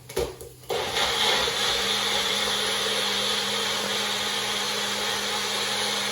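Magic Bullet personal blender running steadily, blending chopped tomatoes, garlic and tomato puree into a passata; a couple of clicks come before the motor starts up under a second in.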